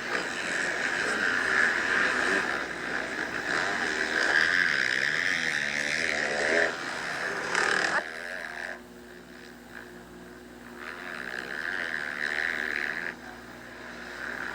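Motocross bike engines revving on the track, their pitch rising and falling as they ride. About eight seconds in the sound drops sharply to a steady low hum, and the engine sound returns more faintly later.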